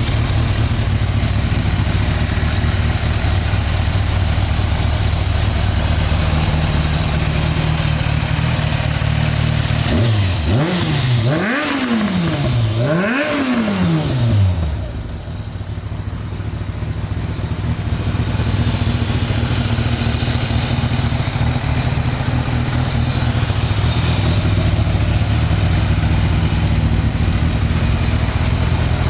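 2004 Kawasaki ZZR1200's inline-four engine idling, revved twice in quick succession about ten seconds in, the pitch rising and falling each time, then settling back to a steady idle.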